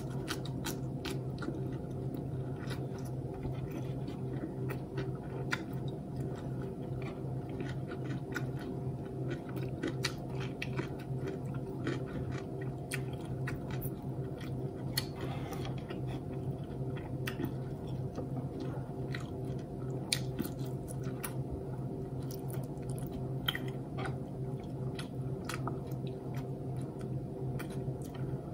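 Close-miked chewing and mouth sounds of someone eating a Filipino breakfast by hand: many small, irregular clicks over a steady low hum.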